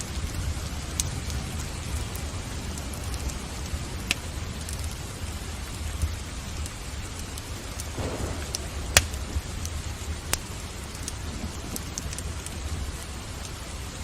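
Steady rain with a low rumble underneath, mixed with the scattered sharp pops of a crackling wood fire in a fireplace, the loudest pop about nine seconds in.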